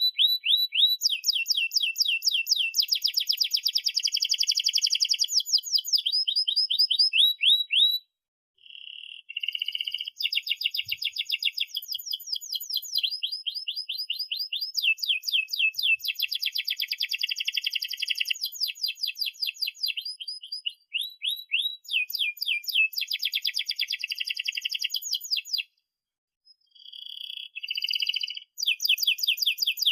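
Domestic canary singing a long song of rapid trills and rolled phrases, the notes repeating many times a second. The song breaks off briefly about eight seconds in, again around twenty-one seconds, and once more around twenty-six seconds, starting again each time.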